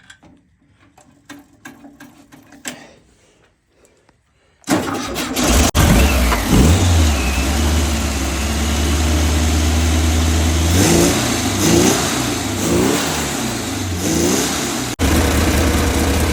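VW air-cooled flat-four engine with a Holley 'bug spray' carburetor, running for the first time in over 30 years. After a few quiet clicks it catches suddenly about five seconds in, then keeps running, revved up and down several times, with a momentary dropout near the end before it runs on.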